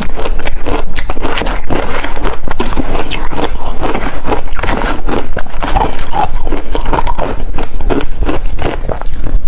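Ice being bitten and chewed close to the microphone: loud, rapid, continuous crunching and cracking.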